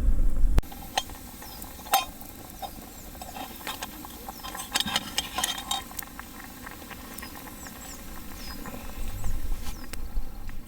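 Small wood fire crackling, with irregular sharp pops and ticks, most frequent in the first half. A low wind rumble cuts off about half a second in.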